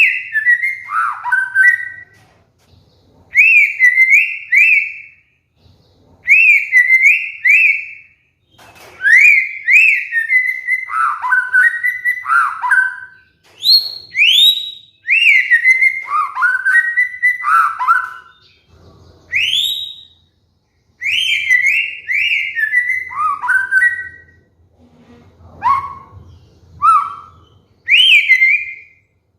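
White-rumped shama singing loud whistled phrases: quick rising notes in runs of two or three, followed by falling notes, repeated with short pauses between phrases.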